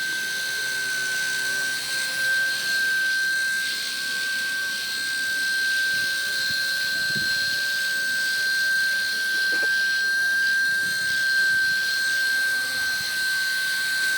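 FBL100 3D micro flybarless RC helicopter in flight: a steady high-pitched electric motor and rotor whine that wavers only slightly in pitch as the throttle shifts.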